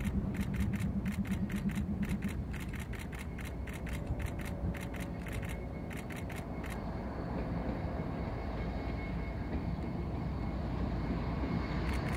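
Train rolling past with a steady low rumble that grows louder toward the end. A rapid, irregular run of sharp clicks stops about seven seconds in.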